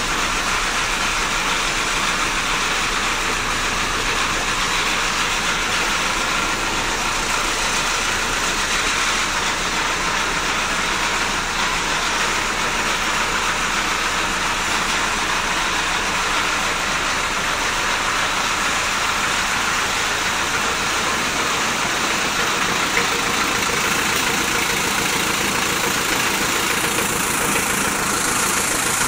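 1975 Land Rover 88's engine idling steadily, running again after standing unused for almost ten years.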